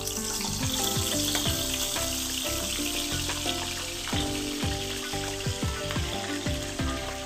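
Capelin shallow-frying in a pan under a generous pour of oil, a steady sizzle, with background music over it.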